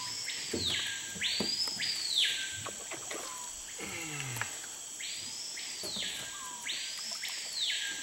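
Screaming piha (Lipaugus vociferans) calling: four loud whistled notes, each shooting up in pitch, holding and then sliding back down, in two pairs, over a steady high hum of insects.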